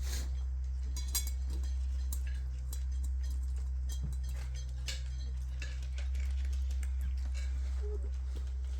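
Cats eating from their food bowls: scattered small clicks and clinks over a steady low hum.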